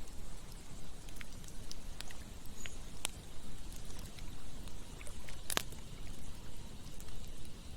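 Campfire crackling: scattered sharp pops and snaps, the loudest about five and a half seconds in, over a steady low rushing of a stream.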